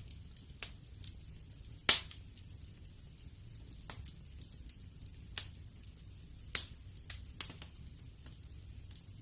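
Fireplace fire crackling: scattered sharp pops over a faint low rumble, the loudest pop about two seconds in and two more strong ones in the second half.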